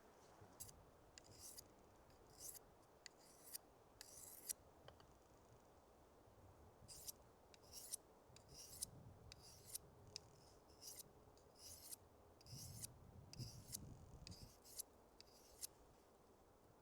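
Faint, short scraping strokes, about two a second, with a pause of about two seconds some five seconds in.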